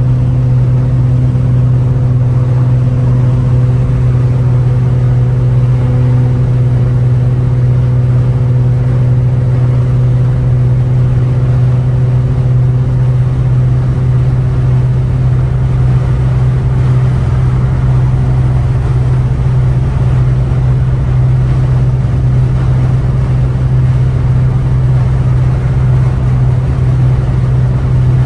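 Straight-piped, catless exhaust of a 2015 Ford Taurus Limited giving a steady low drone while cruising on the highway, with no revving.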